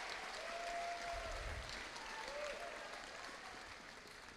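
Audience applauding in a large room, the clapping dying away gradually toward the end, with a few faint voices in the crowd.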